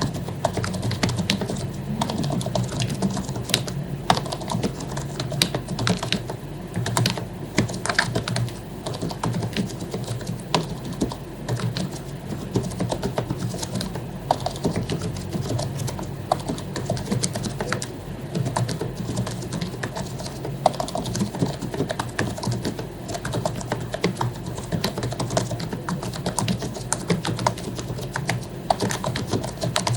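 Continuous typing on an HP membrane computer keyboard whose keycaps have been lubed: a dense, irregular stream of soft key clacks. A steady low hum runs underneath.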